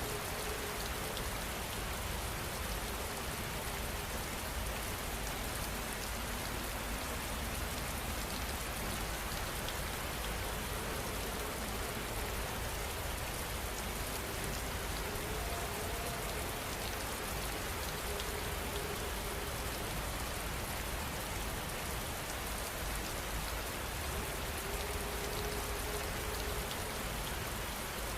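Heavy rain falling steadily, an even hiss of drops on surfaces with no change in intensity.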